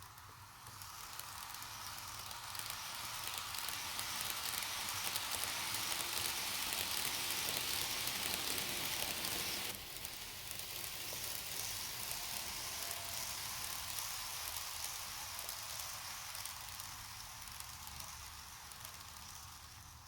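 N-gauge model train running along the track: a hissing rattle of small wheels on rails with fine clicking. It grows louder over the first several seconds, drops suddenly about halfway through, then slowly fades away.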